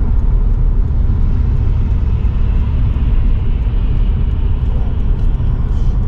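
Car cabin noise while driving on a snowy highway: a steady low rumble of tyres and engine.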